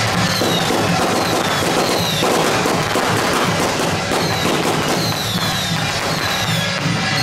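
A string of firecrackers crackling densely over loud dance music with a steady pulsing beat and repeated falling whistle-like tones. The crackling is heaviest in the first half.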